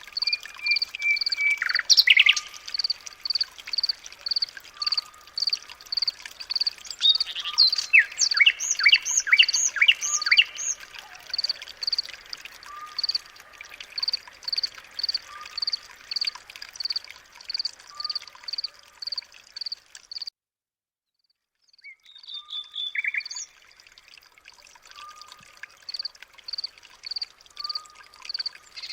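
Birds singing and calling over a high chirp that repeats steadily about twice a second, with a lower short note every second or so and a quick run of sliding song notes several seconds in. The sound cuts out completely for about a second and a half past the middle, then the same chorus resumes.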